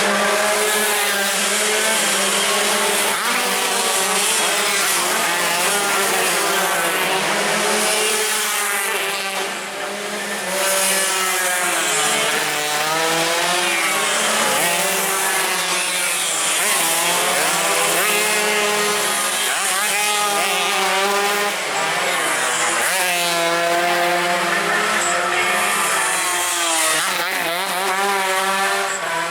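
Several tuned two-stroke racing motorcycles running hard at high revs, their overlapping engine notes repeatedly rising and falling as they accelerate and shift.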